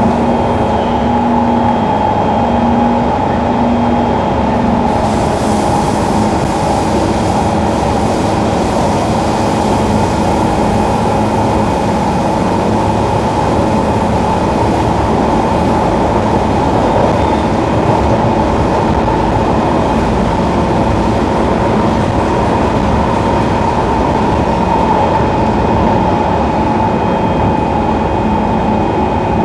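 Singapore MRT electric train running at speed, heard from inside the carriage: a steady, loud rumble of wheels and running gear with faint steady motor whine tones over it.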